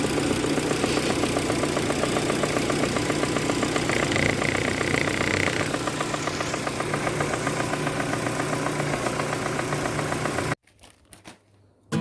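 Proton Campro four-cylinder engine idling, steady, with a fast, even ticking clatter running through it, the rough engine noise blamed on the AIFM intake manifold. A brief high tone sounds about four seconds in, and the engine sound cuts off abruptly about ten and a half seconds in.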